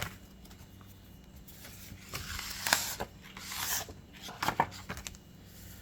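Scratch-off lottery ticket being handled and scraped: several short rasping, rustling scrapes of paper and card.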